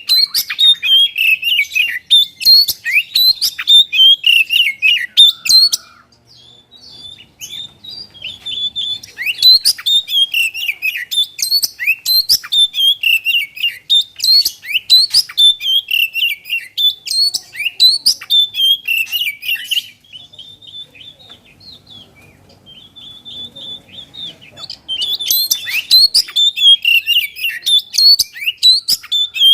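Oriental magpie-robin (kacer) singing a loud, fast, varied song of chirps and whistles, easing twice into softer, sparser phrases before picking up again.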